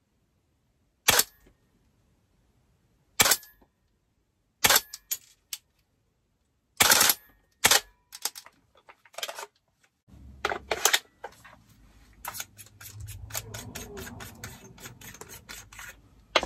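DAS GDR416 airsoft rifle with a recoiling bolt firing single shots, about five sharp cracks one to two seconds apart. Near the end comes a quick run of light clicks with handling noise.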